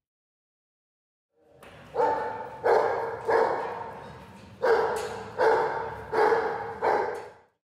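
A dog barking, seven barks in a row starting about two seconds in, each trailing off before the next.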